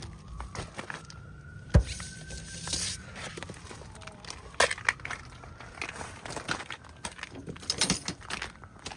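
Footsteps crunching over snow and spread rock salt: uneven steps with sharper crunches, the loudest about two seconds in and several more near the end.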